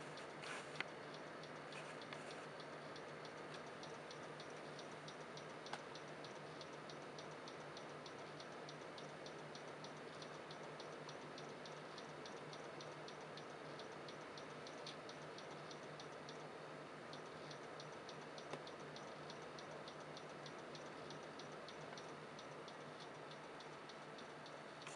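Computer hard drive ticking in a fast, even run of small clicks, with a few louder clicks now and then, over a steady low hum. The uploader takes the clicking for the sign of a failing hard drive.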